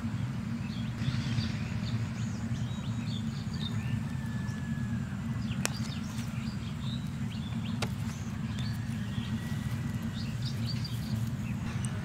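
Small birds chirping in short, scattered calls over a steady low rumble, with two sharp clicks partway through.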